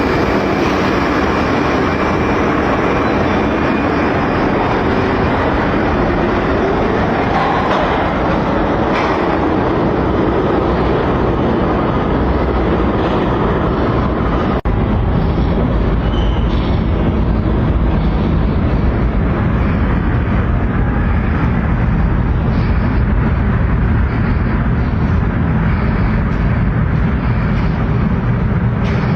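New York City subway train running, with a steady loud rumble and rail noise. A whine rises and falls a few seconds in, and the sound changes abruptly about halfway through, with a heavier low rumble after the break.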